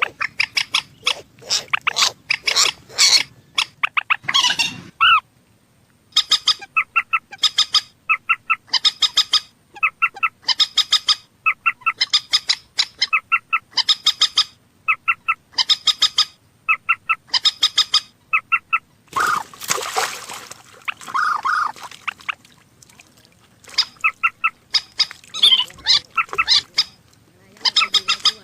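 A bird calling in a long series of short, sharp notes, repeated in quick clusters at an even pace, with a harsher, noisier stretch about twenty seconds in.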